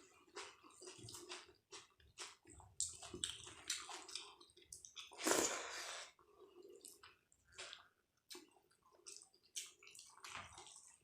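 Close-miked eating: wet, squishy chewing of dal and rice, with irregular smacks and clicks and a louder burst about five seconds in.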